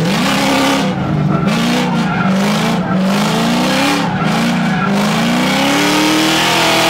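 Drift car engine revving up and down in quick, repeated throttle blips, with tyres squealing and skidding.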